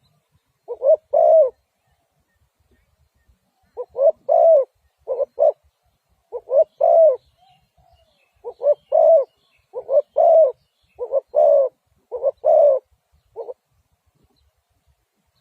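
Spotted dove cooing: short phrases of two or three low, rounded coo notes repeated over and over, with a pause of about two seconds early on.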